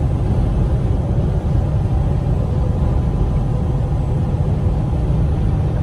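Steady low rumble of a 2021 Freightliner Cascadia semi-truck cruising at highway speed, heard from inside the cab: engine drone mixed with road noise.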